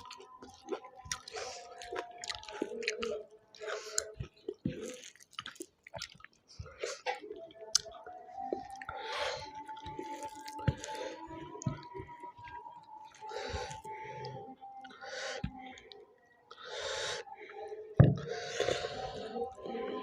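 Close-up eating sounds: a person chewing and smacking a wet, soft mouthful, with irregular clicks and squishes, and one sharp thump near the end.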